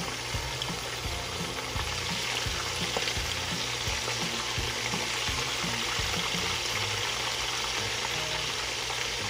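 Food frying in a pan: a steady sizzle that gets a little louder about two seconds in.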